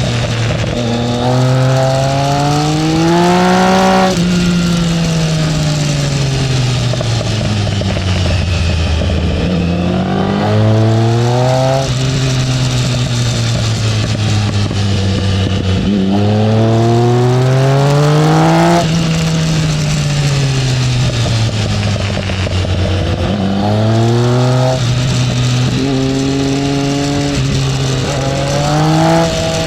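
Triumph Speed Triple's inline three-cylinder engine heard on board, ridden hard: it revs up steeply four times, each climb broken by a sudden drop in pitch, then winds down as the bike slows. Wind rush runs under it throughout.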